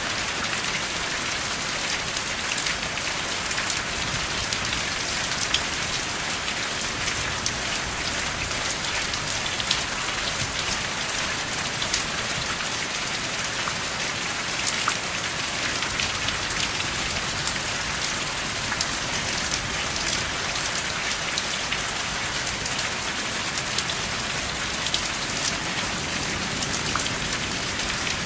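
Steady rain falling: a dense, even hiss with many sharp ticks of single drops striking a surface, and no thunder.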